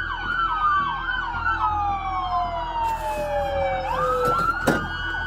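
Several police car sirens sounding at once: a slow wail that falls in pitch and climbs back up near the end, over a faster repeating yelp. A sharp click comes about four and a half seconds in.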